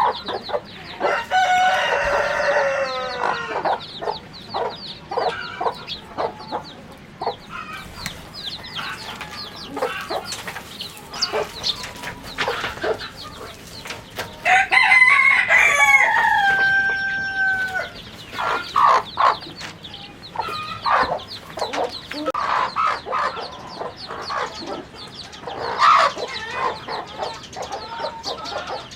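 Chickens clucking steadily, with a rooster crowing twice: once right at the start and once, louder, about halfway through, each crow holding its pitch and then falling away.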